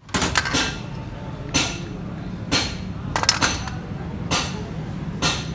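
Metal parts or tools being struck and clinking, one sharp ringing knock about every second with a few quick ones near the start and middle, over a steady low hum.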